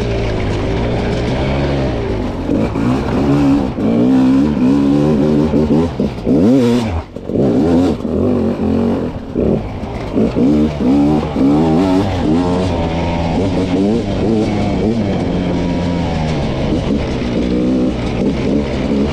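300cc two-stroke dirt bike engine under hard riding, revs rising and falling with constant throttle changes. About seven seconds in, the revs climb and then drop sharply for a moment before picking back up.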